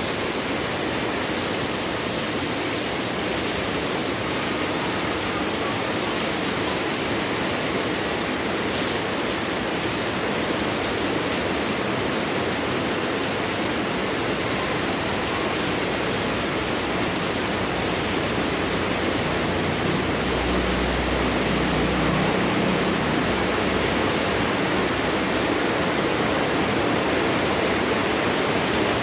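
Steady heavy rain falling, an even hiss. A brief low rumble joins it about twenty seconds in.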